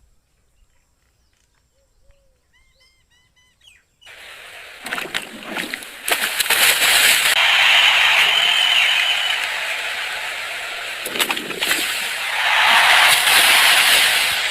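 Near silence with a few faint bird chirps, then from about four seconds in a loud splash and a long stretch of splashing water.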